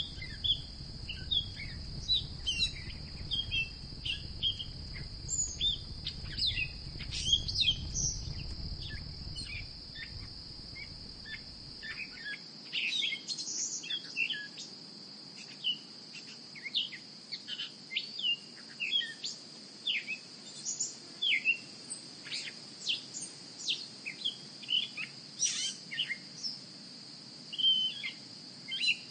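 Many small birds chirping and calling over a steady, high insect drone. A low rumble under them stops about twelve seconds in.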